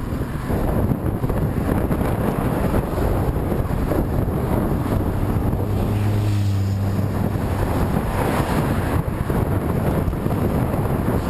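Heavy wind buffeting on the microphone while moving into a headwind, a loud rumbling noise throughout. A low hum rises and fades about halfway through.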